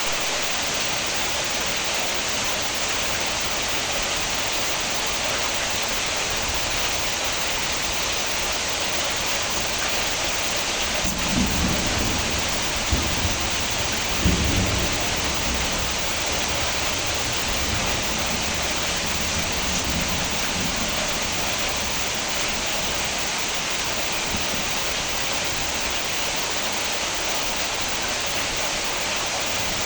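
Steady heavy rain with a dense, even hiss. Thunder rumbles low about a third of the way in, with two sharper claps in the middle of it.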